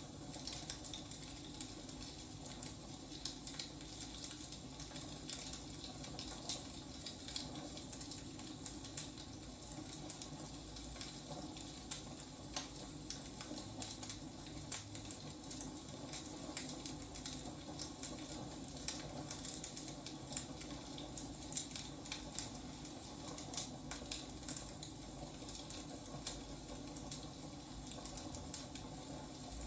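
Wood fire crackling: irregular sharp pops and snaps from burning firewood over a low steady hiss.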